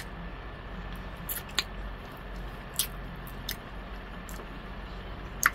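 A person chewing pig feet with wet mouth sounds, broken by a handful of short, sharp lip smacks spread through, over a steady low hum.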